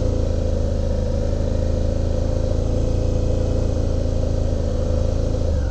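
Suzuki V-Strom 650's V-twin engine held at steady high revs while the bike creeps along slowly, its speed controlled on the clutch and brake rather than the throttle. The revs dip slightly near the end.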